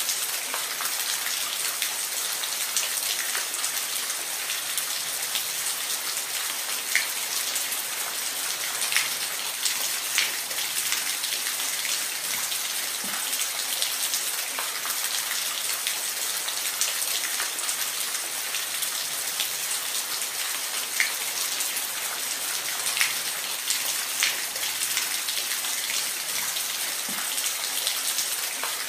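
Steady rain falling, an even hiss with scattered individual drops pattering sharply.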